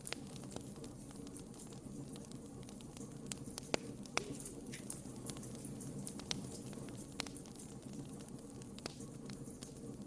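Wood fire burning in a fireplace: a steady low rumble of flame with irregular sharp crackles and pops, a few louder pops in the middle.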